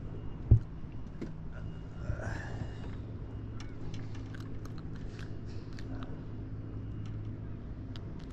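A boat motor idling with a steady low hum. A single sharp knock comes about half a second in, and a scatter of small clicks and rattles follows a few seconds later.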